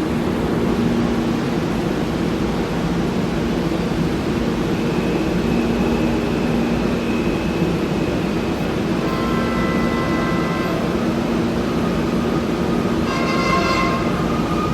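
MRT-3 light rail train running with a steady rumble. Steady tones come in about nine seconds in, and near the end the train's horn starts to sound as a chord of several tones.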